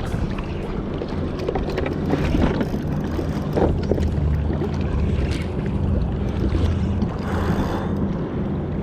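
Water splashing and lapping against a kayak's hull, with wind buffeting the microphone and a steady low hum underneath.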